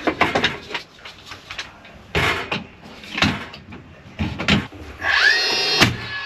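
A series of sharp knocks and clicks from carpentry work on wood, then near the end a power tool's whine rising quickly in pitch and holding steady.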